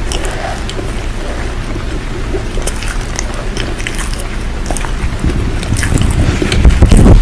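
Steady rain with intermittent crisp crunching sounds scattered through it. A low rumble swells over the last two seconds, becoming the loudest sound near the end.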